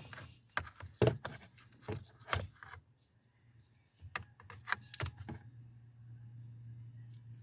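A run of sharp clicks and knocks from small hard objects being handled, with a short pause in the middle. A low steady hum starts about five and a half seconds in.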